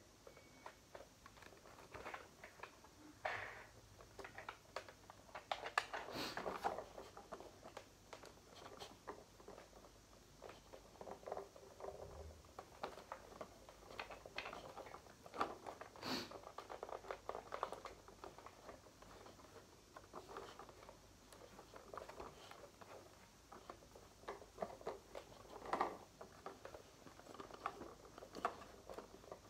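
Irregular clicks, scrapes and rustles of hands handling a toy helicopter and its packaging, with a few louder knocks.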